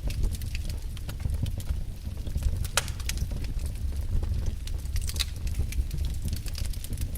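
Wood fire burning in a fireplace, crackling with irregular sharp pops, one louder snap about three seconds in, over a steady low rumble of the flames.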